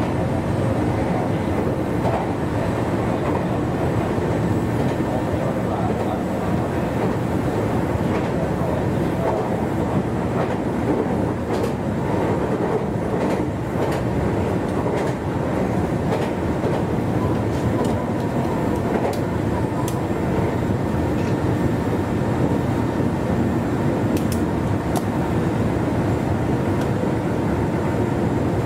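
Running noise of a Meitetsu 1200 series electric train at speed, heard from inside the train: a steady rumble of wheels on rail and traction equipment, with a few faint clicks.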